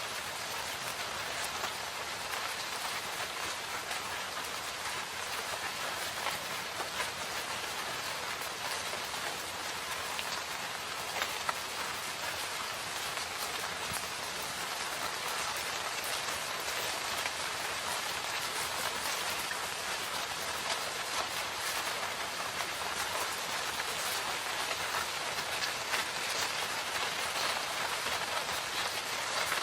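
Steady rain falling in a forest, a dense even hiss with many small drops ticking on surfaces.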